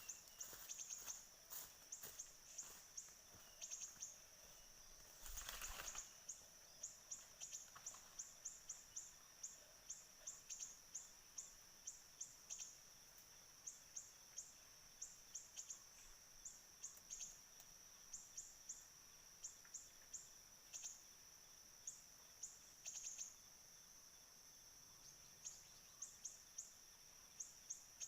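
Faint, short high-pitched bird chirps repeated in quick irregular runs, over a steady high insect drone. A brief rustle about five seconds in.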